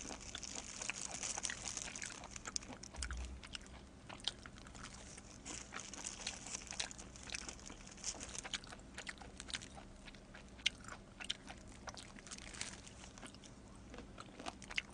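Close-miked chewing and biting of pizza: a steady run of small mouth clicks and light crunches throughout.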